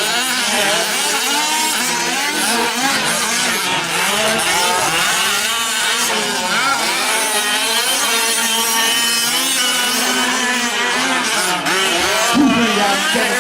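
Several 1/5-scale gas-powered RC off-road trucks racing together, their small two-stroke engines buzzing and revving, the overlapping pitches rising and falling as the throttles come on and off.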